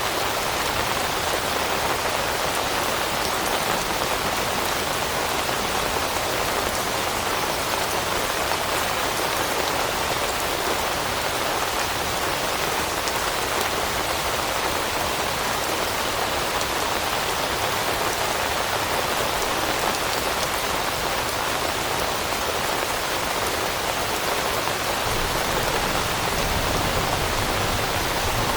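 Steady rain falling on forest leaves, an even hiss without pauses, with a low rumble coming up near the end.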